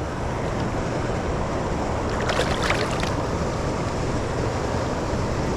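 Steady rushing noise of fast river current around a kayak, with wind on the microphone.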